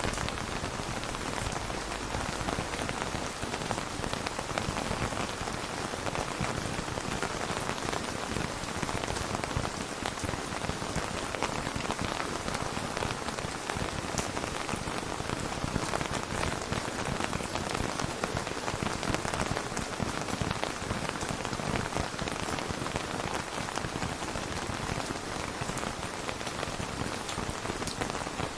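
Steady, heavy rainfall pattering on a surface, an even hiss made of countless small drop impacts.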